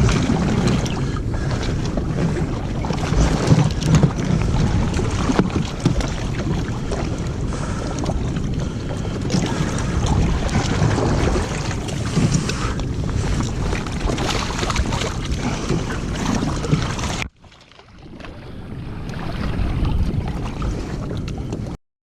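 Jet ski running on the open ocean, with wind rushing over the microphone and water noise. The sound drops away suddenly about three-quarters of the way through, builds back up, and cuts off just before the end.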